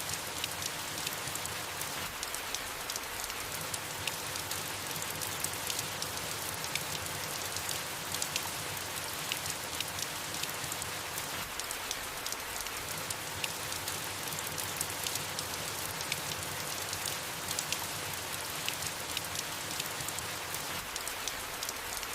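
Soft, steady rain falling on leaves: an even hiss dotted with many small drop ticks.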